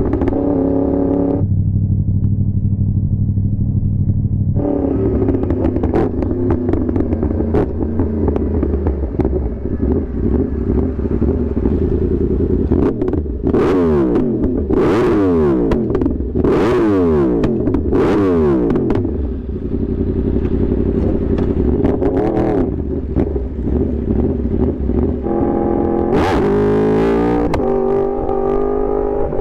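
Yamaha R1 sport bike's inline-four engine being ridden hard, loud, its revs rising and falling repeatedly with several sharp drops in pitch in the middle and stepwise changes near the end.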